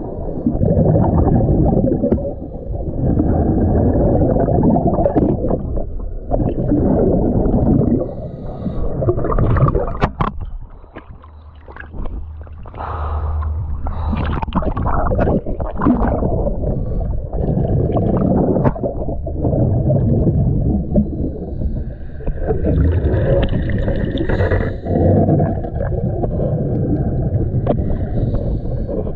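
A scuba diver breathing through a regulator underwater: exhaled bubbles gurgle and rumble in repeated surges of a few seconds each, with brief lulls between breaths.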